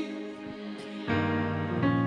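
Instrumental worship-band accompaniment holding a sustained chord between sung lines, with no voice; a new chord comes in about a second in.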